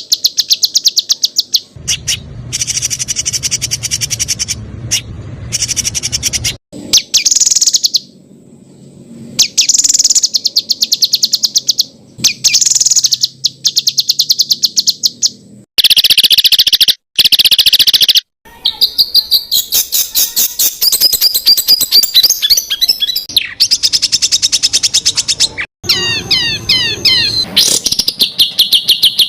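Songbird song of the 'tembakan' kind used as training audio for competition birds: dense strings of sharp, rapidly repeated notes, spliced together in segments that cut off abruptly, with quicker warbling trills in the final third.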